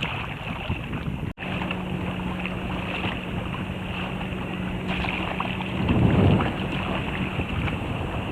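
Wind buffeting the microphone over the wash of sea water around a kayak, with a stronger gust about six seconds in. A brief dropout comes just over a second in, followed by a faint steady low hum.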